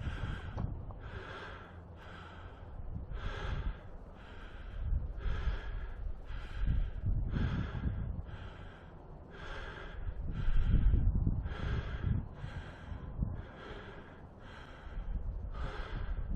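A man breathing hard while climbing a steep trail, with strong exhalations about once a second over a low rumble.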